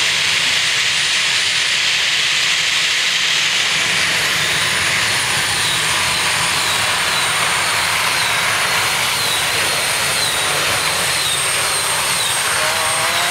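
Pulling tractor's engine running flat out under heavy load on a pull, a loud, steady noise with a high wavering whine over it.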